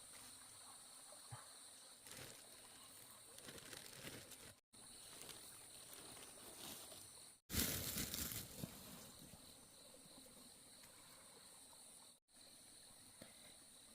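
Insects chirring steadily in high-pitched tones, with a short burst of louder rustling noise about seven and a half seconds in.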